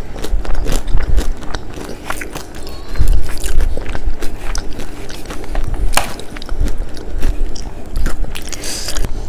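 A person chewing a mouthful of crispy McDonald's fried chicken, close-miked, with irregular crunches of the batter.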